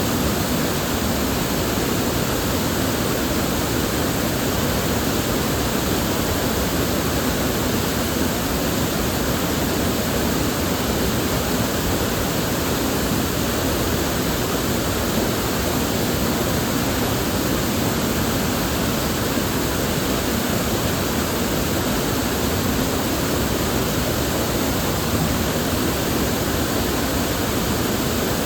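River water flowing and rushing steadily, a dense, even wash of sound with no breaks.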